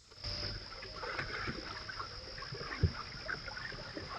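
Pedal paddleboat on a pond, heard through a trail camera's microphone: light splashing and knocking of the boat on the water, over a steady high-pitched whine.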